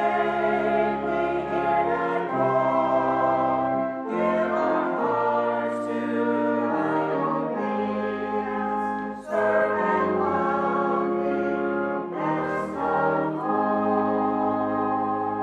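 Congregation singing the closing phrases of a hymn with instrumental accompaniment, in sustained chords with short breaths between lines. The last chord is held to the end.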